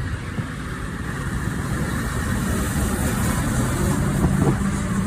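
Scania 144G's V8 diesel engine pulling away under power, with a steady low note that grows gradually louder.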